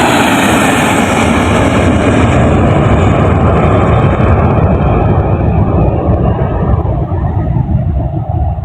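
Fixed-wing aircraft's engines running loud as the plane passes; the high hiss fades away after about two seconds, leaving a low rumble.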